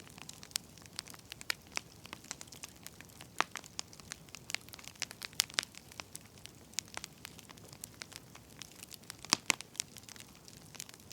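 Wood fire crackling, with irregular sharp pops and snaps over a soft hiss, a few pops standing out louder.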